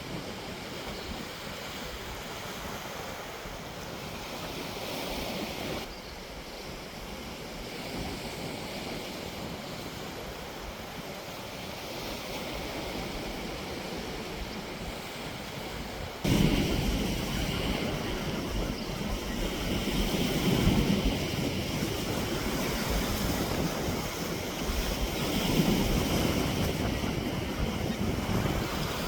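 Steady rushing outdoor noise with no clear tones, which steps suddenly louder about sixteen seconds in.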